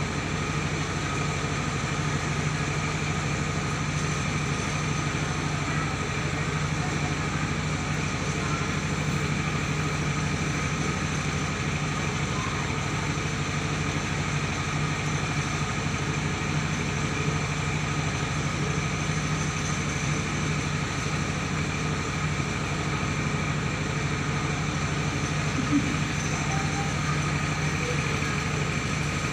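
Mobile rice mill running steadily: a continuous engine hum with a steady high whine from the milling machinery.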